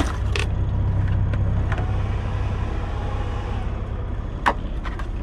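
Semi truck's diesel engine idling with a steady low rumble, with a few sharp clicks, the clearest about four and a half seconds in.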